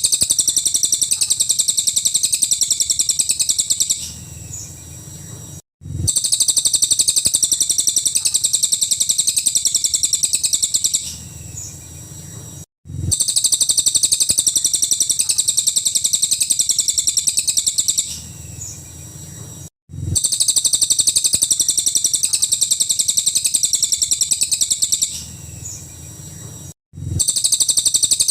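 Cililin bird singing its rapid, high-pitched rattling 'nembak' song in bursts of about four seconds, each followed by a few softer notes. The same phrase repeats four times with a short dropout between, as in a looped recording.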